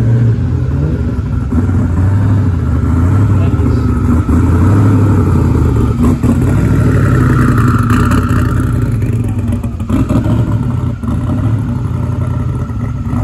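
Engines of classic cars driving slowly past, a loud, deep exhaust drone that holds fairly steady.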